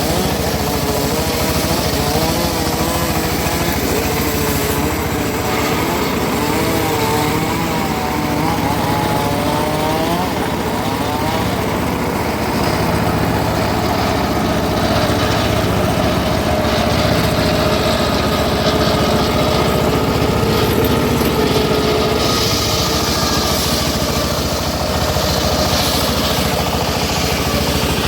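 Home-built circular sawmill running steadily, its pitch wavering up and down for the first ten seconds or so before settling into a steady hum.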